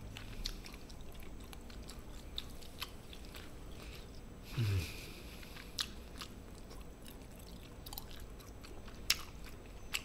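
Close-up eating sounds: quiet chewing and biting with scattered sharp clicks and crunches, and a short breathy vocal noise a little over four seconds in.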